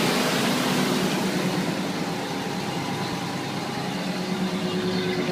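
A 2005 Ford Ranger's 3.0-litre V6 idling steadily, heard through a stock exhaust with the third catalytic converter removed, which gives it a little rumble.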